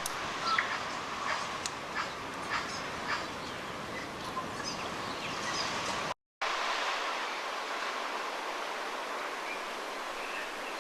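Steady wash of small waves on a beach with native birds chirping and clicking over it, busiest in the first half. The sound drops out for a moment about six seconds in, then the waves go on with only a few calls.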